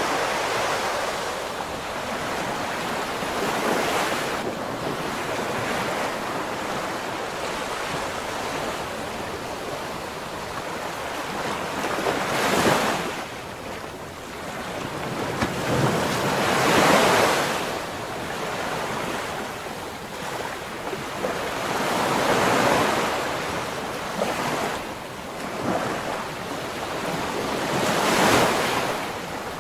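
Ocean waves breaking on the shore, with a wave surging in about every five seconds over a steady wash of surf.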